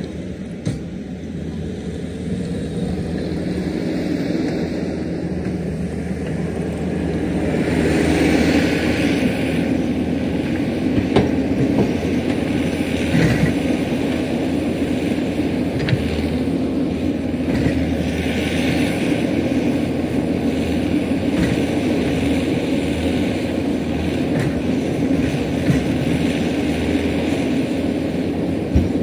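Diesel engine of heavy earthmoving equipment running under load. It grows louder from about eight seconds in, with occasional sharp clanks.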